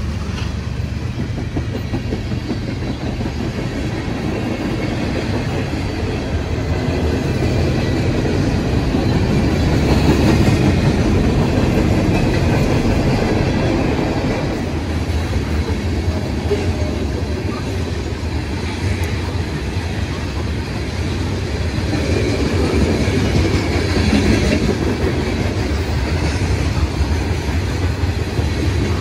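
Freight train of tank cars and covered hopper cars rolling past, steel wheels running on the rails in a steady loud rush that swells and eases as the cars go by.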